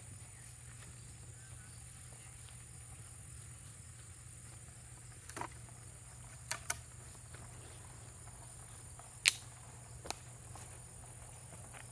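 Steady high-pitched drone of insects such as crickets, with a low hum beneath it. A few sharp clicks or snaps break in during the second half, the loudest about nine seconds in.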